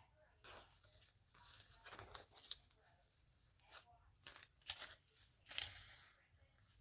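Faint snips of scissors and rustles of magazine paper being cut and handled: a handful of short, crisp sounds, the loudest two about two-thirds through, a second apart.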